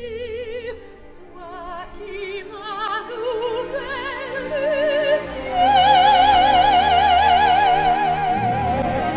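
Opera music: a singer with heavy vibrato climbing through several notes to a long held high note from about halfway, over steady accompaniment.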